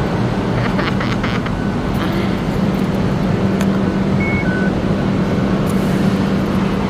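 Steady rumble of a moving vehicle with a constant low hum, and two short, faint beeps about halfway through.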